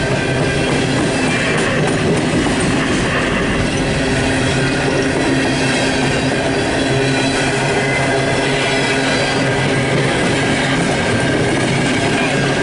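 Empty CSX coal train's open-top steel coal cars rolling past close by: a steady, loud rumble and clatter of steel wheels on the rails.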